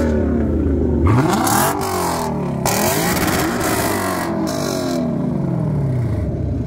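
Lexus LC500's 5.0-litre V8 being revved hard through a muffler-delete exhaust with a race muffler: the pitch shoots up about a second in, then falls away and climbs again in several revs.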